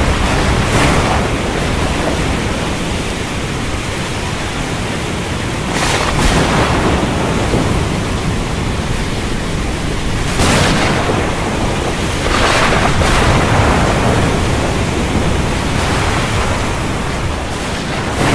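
Thunderstorm: heavy rain pouring steadily with deep thunder rumbling underneath, and a few brief louder surges, about six, ten and a half and thirteen seconds in.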